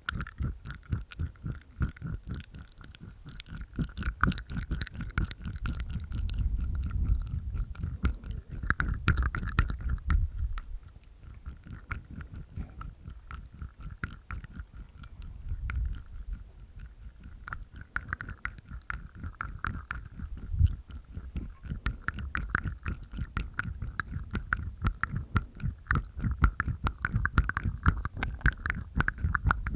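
Close-miked ASMR mouth sounds: rapid wet tongue clicks and smacks inside the mouth with teeth tapping, in a steady stream of small clicks.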